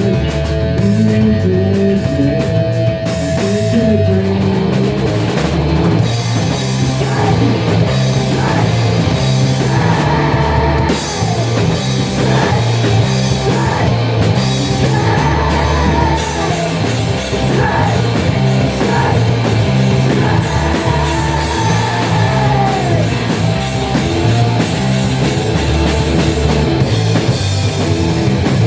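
Loud heavy rock music: distorted guitars, bass and a drum kit playing steadily, with a wavering melodic lead line, sung or played, through the middle.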